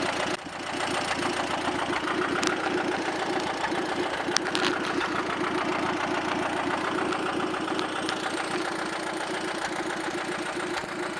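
Allis-Chalmers tractor engine running steadily under way, with an even rapid chug. A couple of faint clicks stand out over it, about two and a half and four and a half seconds in.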